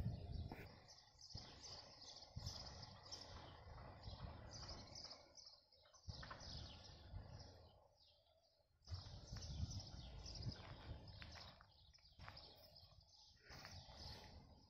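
Small birds chirping faintly in the trees, a steady scatter of short, quick calls over a low rumble, briefly dropping out about eight seconds in.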